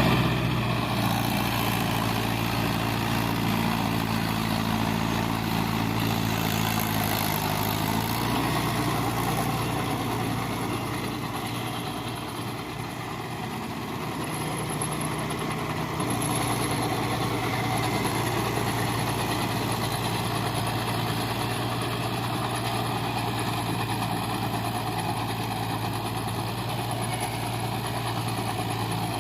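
Mahindra tractor's diesel engine running steadily while pulling a plough. The engine note shifts about eight seconds in, and the sound eases a little around the middle before picking up again.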